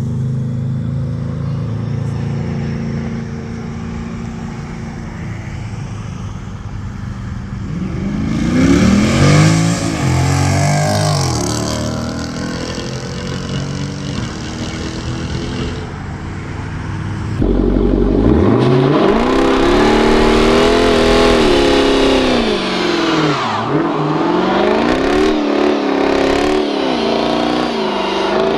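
V8 exhaust of a Jeep Grand Cherokee SRT through a Corsa Xtreme cat-back system, running low and steady at first with a brief rev up and down. About two-thirds of the way in it jumps suddenly louder into hard acceleration, the pitch climbing and falling several times.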